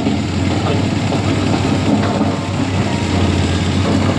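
Vehicle engines idling, a steady low hum.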